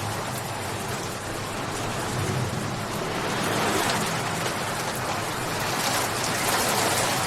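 Steady rain falling, a dense even hiss that swells a little louder twice, about halfway through and near the end.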